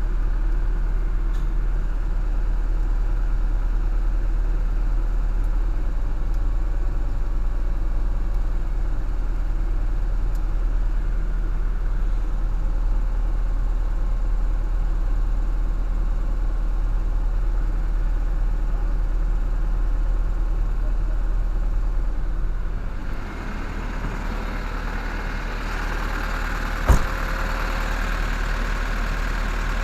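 Truck refrigeration unit running with a steady engine drone. About two-thirds of the way through the sound shifts and a brighter hiss comes up, and a few seconds later there is one sharp knock.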